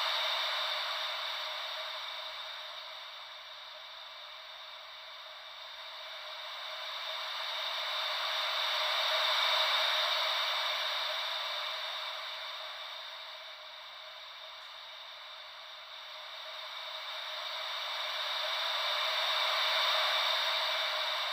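Ocean-wave white noise: a steady hiss that swells and fades slowly, like waves washing in and drawing back, peaking about every ten seconds. It is loudest at the start, about nine seconds in and near the end, with no deep rumble under it.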